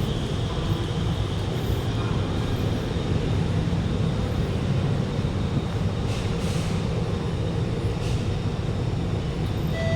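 Alstom Movia R151 metro train heard from inside the carriage while running: a steady rumble of wheels on track and running gear.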